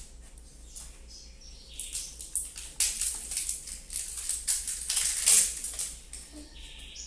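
Slime being squeezed and stretched by hand, making quick wet crackling and popping clicks that grow denser and louder about two seconds in, then ease off near the end.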